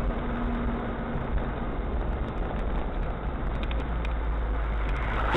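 Steady low rumble of a car's engine and road noise picked up by a dashcam while driving.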